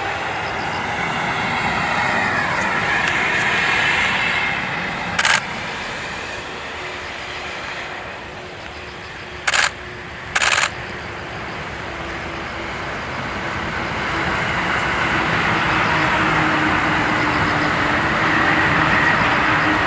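Railway noise from a train on the Joban Line: running noise with a falling whine over the first few seconds, easing off, then building again steadily through the second half with a steady hum. Three short, sharp bursts cut in about five, nine and a half, and ten and a half seconds in.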